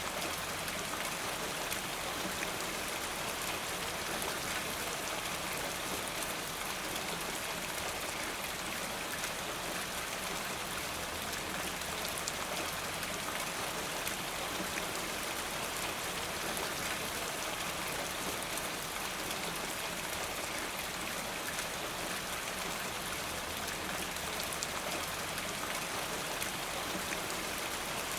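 Steady soft rain falling, a continuous even hiss with many fine drop ticks.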